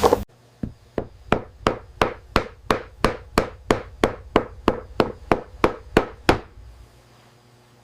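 Repeated hammer strikes in a steady rhythm, about three blows a second and about twenty in all, stopping about a second before the end.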